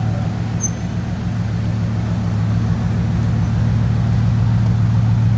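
Bugatti Veyron's 8-litre W16 engine idling steadily, a low even hum with no revving.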